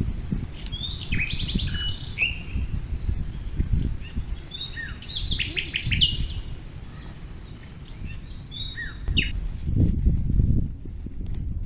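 Wild birds chirping: a run of short calls, trills and quick falling notes, thickest in the first half and again near the end. Beneath them runs a low, uneven rumble, loudest near the end.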